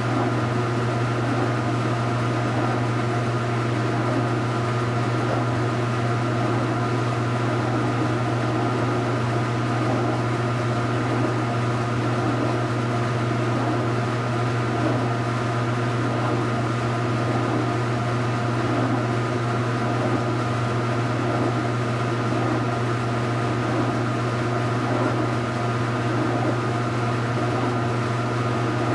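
Speed Queen top-load washing machine running with a steady motor hum and some churning sound above it, unchanged throughout.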